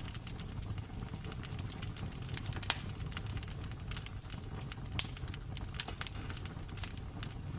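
Wood fire crackling in a fireplace: a steady low rumble with frequent small crackles, and two sharper pops, about a third and two thirds of the way through.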